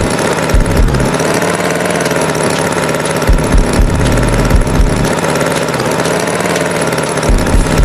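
Tractor engine running steadily, with irregular low thumps.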